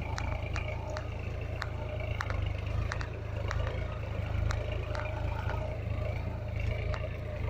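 Solis tractor's diesel engine running steadily, a low rumble with fast even pulsing, with light sharp clicks and rattles scattered over it.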